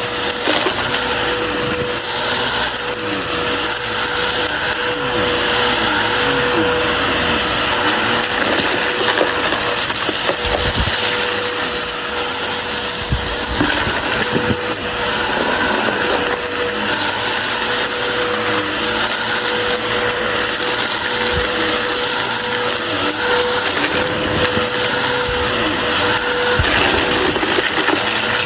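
Shark vacuum cleaner running steadily with a constant whine, picking up a crunchy dry mess with irregular crackling and rattling of debris.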